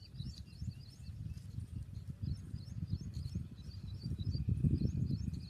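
Small birds chirping in quick, high, repeated notes over a louder, uneven low rumble.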